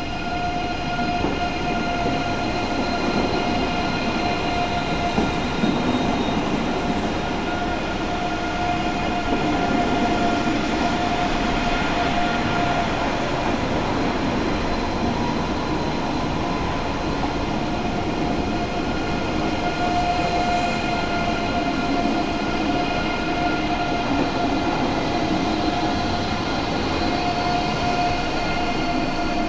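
ICE 3 high-speed electric train arriving and rolling slowly past along the platform: steady running and wheel noise with a constant electric whine on several pitches.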